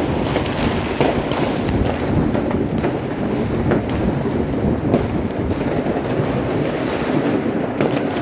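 Fireworks and firecrackers going off without pause: a dense, continuous crackle of many small bangs.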